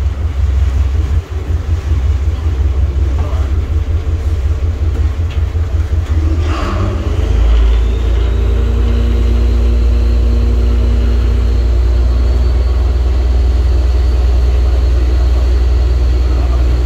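A boat's engine runs with a loud low rumble. About seven seconds in, the drone grows louder and steadier, and a faint high whine rises in and then holds.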